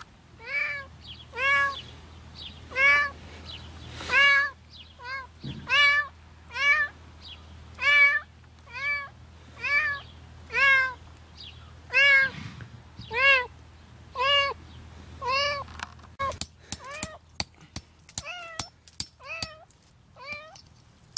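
A kitten trapped up to its head in set concrete meows over and over, about one short cry every second or less. About 16 seconds in, a rapid run of sharp knocks starts, a hammer chipping at the concrete around it, while the meows go on more faintly.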